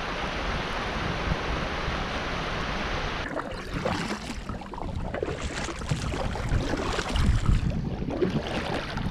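Rushing river water at the tail of a rapid around a kayak: a steady rush that turns choppy and uneven about three seconds in, with splashing.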